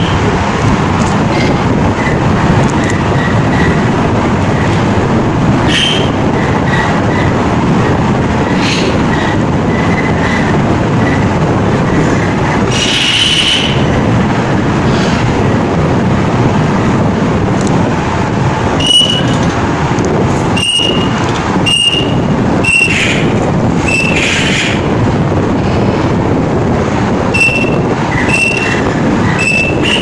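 A loud, steady rushing noise with short high chirps from caged birds over it: a run of quick, evenly spaced chirps in the first third, then sharper single chirps every second or so in the last third.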